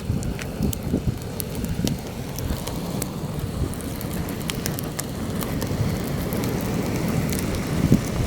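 Campfire crackling, with scattered sharp pops, while heavy wind buffets the microphone with a low, gusting rumble.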